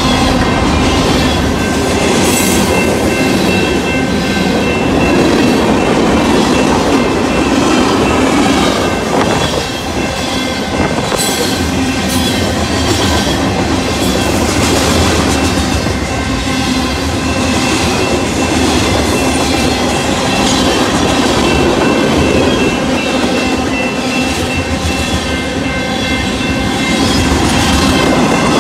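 Union Pacific freight train's cars rolling steadily past: a continuous rumble with the clickety-clack of wheels over rail joints and a few faint steady high tones above it.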